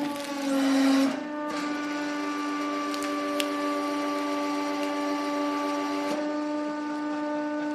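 A machine running with a steady, even-pitched hum. It swells briefly in the first second, then holds level.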